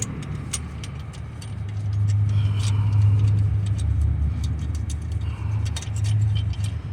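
Light scattered metallic clicks and taps of hand tools working a small starter bracket loose under a car. A low steady engine hum swells in about two seconds in and fades near the end.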